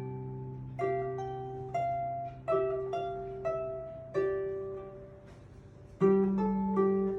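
Harp playing a slow melody: single plucked notes ring out and fade about once a second over sustained low notes, with a louder chord about six seconds in.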